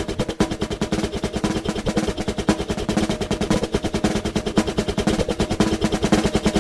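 Drums played in a fast, dense stream of rapid strokes, close to a roll, in a percussion performance.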